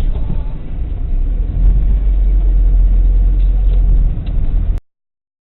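Vehicle rumble with a heavy, deep low end that swells about a second and a half in, then cuts off abruptly near the end.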